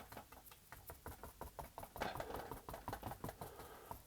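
Paintbrush rapidly dabbing and stamping acrylic paint onto the painting: a quick run of light taps, several a second, with a brushing scrub joining in about halfway.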